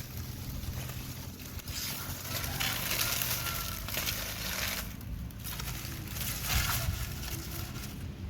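Dry, half-dried banana leaves rustling and crackling in uneven spells as they are handled and pressed onto burning charcoal, over a low rumble.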